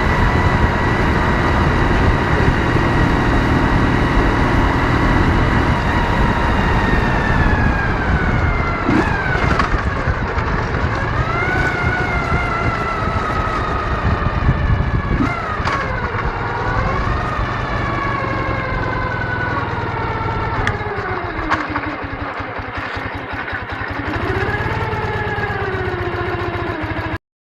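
Ural motorcycle's 650 cc flat-twin engine running on the move, its pitch steady for several seconds, then falling and rising again several times as the bike slows and speeds up, over a low wind rumble. The sound cuts off suddenly near the end.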